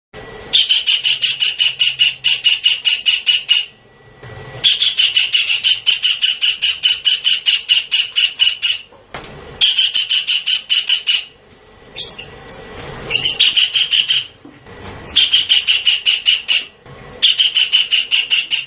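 Javan kingfisher calling: a fast rattling series of harsh, evenly repeated notes in bouts of a few seconds with short breaks between them, about six bouts in all. A different gliding, squealing call comes about twelve seconds in.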